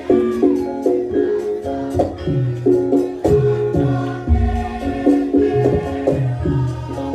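Javanese gamelan music for a lengger dance: struck melodic notes repeating in an interlocking pattern over drum strokes, with a deep low stroke about four seconds in.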